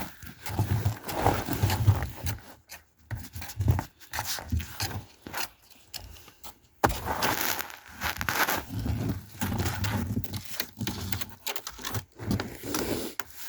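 Irregular crunching and scraping, typical of footsteps and movement on icy snow, with rustling and handling noise close to the microphone.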